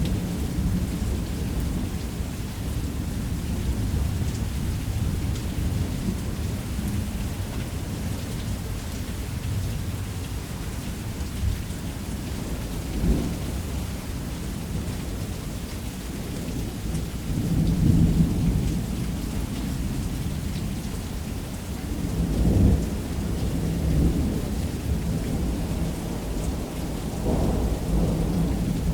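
Heavy rain pouring steadily on a roof under continuous low rolling thunder. The thunder swells into louder rumbles several times, the strongest about two-thirds of the way through.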